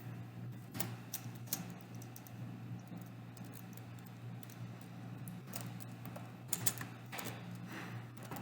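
Computer keyboard typing: scattered keystrokes, a few about a second in and a cluster around six to seven seconds, over a steady low hum.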